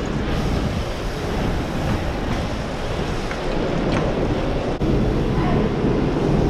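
Wind buffeting the microphone: a steady, loud rushing noise heavy in the low end.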